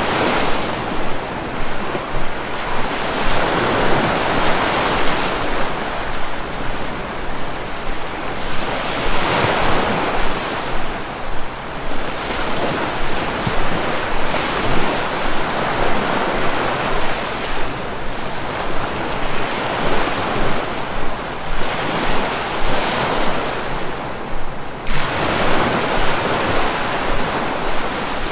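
Sea waves breaking and washing on the shore, a steady roar of surf that swells and ebbs every few seconds, with some wind noise on the microphone.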